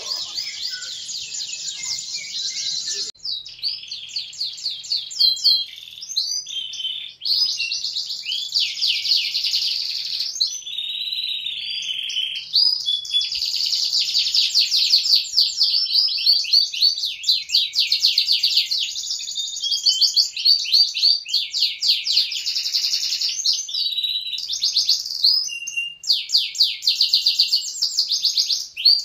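Domestic canaries singing: long runs of fast, high trills and warbling rolls, with brief pauses and changes of phrase.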